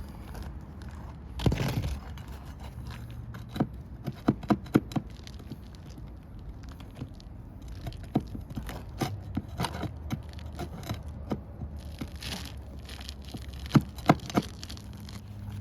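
Scraping and irregular sharp taps and clicks of a tool working under asphalt shingles to pry out roofing nails, with a longer scrape about a second and a half in and a quick run of taps around four to five seconds.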